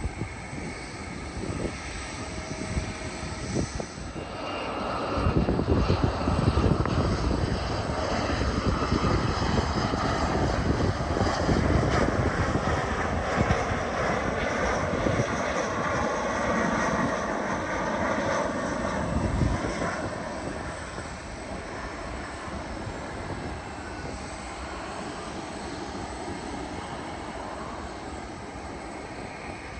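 Jet airliner's engines passing on landing approach: the sound swells about five seconds in, stays loud for roughly fifteen seconds, then fades away.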